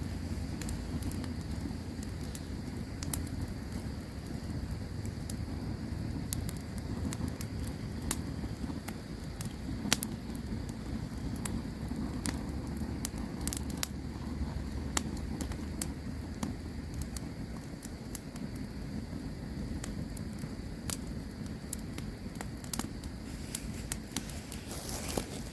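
Campfire crackling, with irregular sharp pops and snaps over a steady low rumble of burning; one pop about ten seconds in stands out as the loudest.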